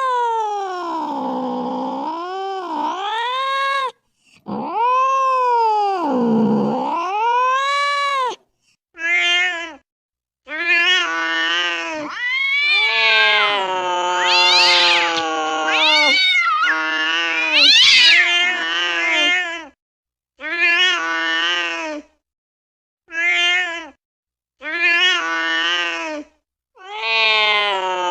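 A domestic cat yowling: a string of drawn-out meows that bend up and down in pitch. Some calls last several seconds and a few are short, and they are separated by abrupt silent gaps.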